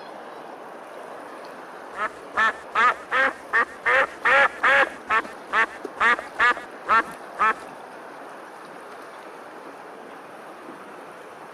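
A duck quacking: a run of about fourteen quacks, roughly two or three a second, that starts about two seconds in and stops about halfway through, over a steady background hiss.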